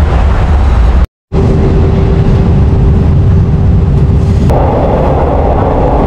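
Loud, steady running noise of a moving train heard from inside a fan-cooled second-class carriage, with a steady hum underneath. The sound cuts out briefly about a second in and changes abruptly a little after four seconds in.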